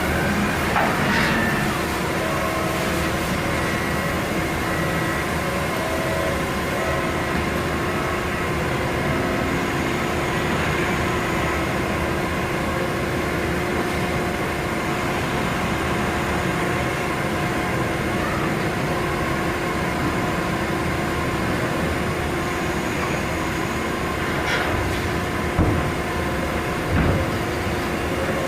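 Steady machine running, a continuous hum with several held tones over a noisy rumble, with two short thumps near the end.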